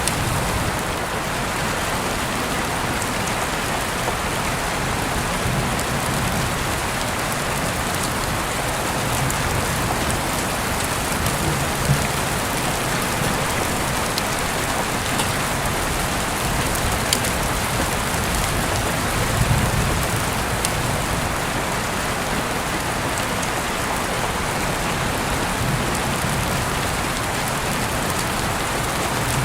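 Heavy rain falling steadily, with a few brief low rumbles swelling under it.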